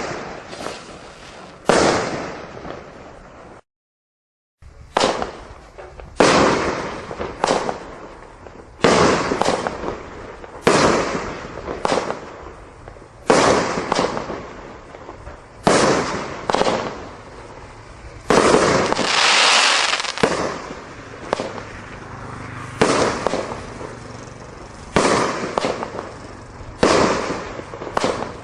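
Display firework cakes firing in a barrage: sharp bangs about every one to two seconds, each with a fading crackling tail, and a longer dense run of bursts about two-thirds of the way through. The sound cuts out completely for about a second around four seconds in.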